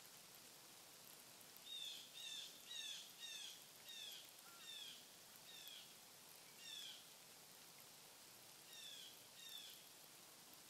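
A bird calling a series of short, down-slurred notes, about two a second, then pausing and giving two more near the end, over a faint steady hiss.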